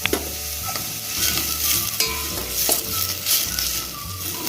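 Onion and tomato sizzling in hot oil in a pan as they are stirred, the sizzle swelling with each stir, with a few light clicks of the utensil against the pan.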